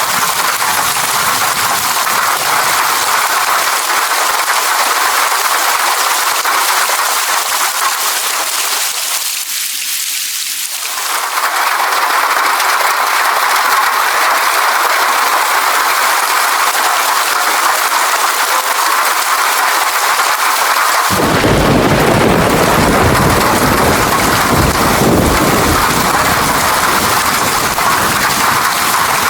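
Steady heavy rain, with a deep rumble of thunder that comes in about two thirds of the way through and rolls on to the end.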